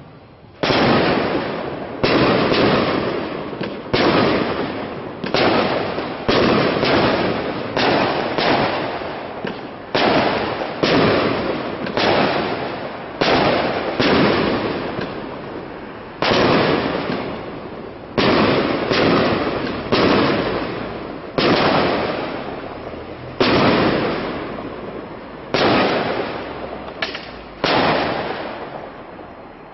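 Aerial firework shells bursting one after another, roughly one bang a second with some close pairs, each bang followed by a long echo that dies away.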